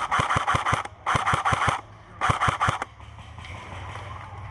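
Airsoft rifle firing three short full-auto bursts in quick succession, each under a second, with the shots ending about three seconds in; a low steady rumble follows.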